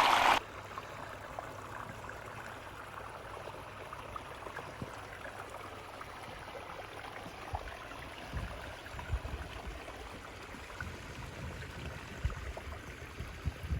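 Water from a garden pond waterfall sheeting off the top of a biofalls filter and splashing into the pond, a steady gentle rush. Low thumps come and go in the second half.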